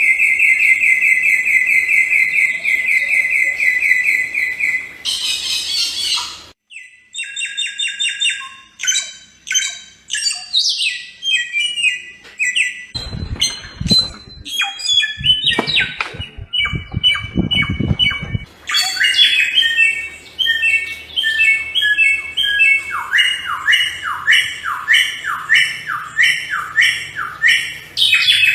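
Samyong songbird singing a varied song: a buzzy trill for the first few seconds, then rapid runs of short whistled notes and trills, and later a long string of quick downward-slurred notes, about two a second. Some low thumps sound in the middle.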